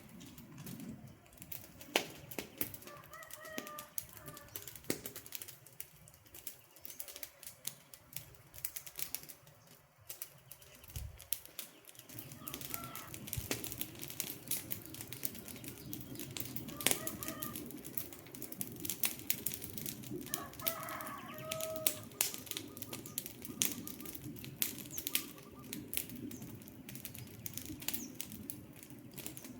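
Wood fire crackling, with frequent irregular sharp pops over a low hiss that gets fuller about twelve seconds in. A few short bird calls come in at several points.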